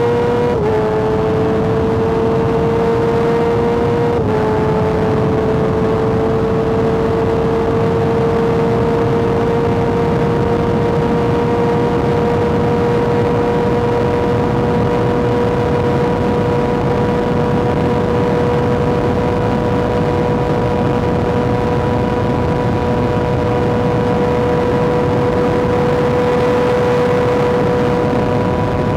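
Kawasaki ZX-6R inline-four engine pulling at high revs under way. Its pitch dips briefly twice in the first few seconds, as on gear changes, then holds a steady high note that creeps slowly upward, over a constant wind rush.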